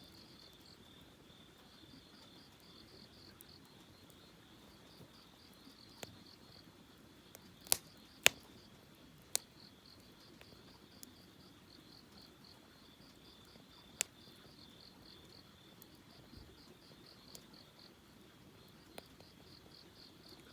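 Crickets chirping in a steady pulsing trill, with scattered sharp pops from a crackling wood campfire; the two loudest pops come close together about eight seconds in.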